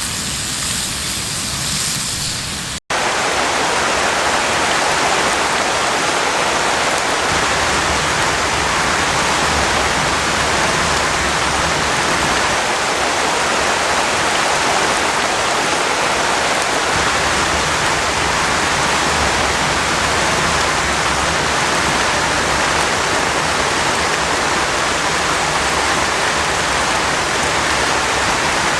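Heavy rain pouring steadily. About three seconds in there is a brief break, after which the rain comes in as a denser, fuller rush.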